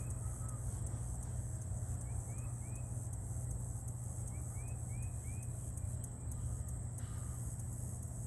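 Steady low engine drone from a slowly moving rail vehicle, with short chirps repeating every fraction of a second and a steady high buzz over it.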